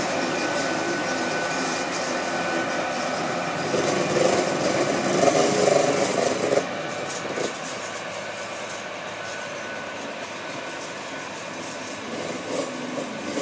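Hitachi Class 810 bi-mode passenger train moving off at low speed, its running gear and traction equipment making a steady hum with a faint high whine. It is louder for a couple of seconds in the middle and drops suddenly about six and a half seconds in.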